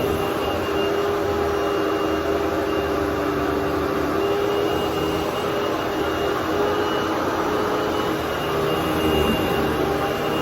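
Hoover WindTunnel bagless twin chamber upright vacuum cleaner running: a loud, steady motor and airflow noise with a constant whine.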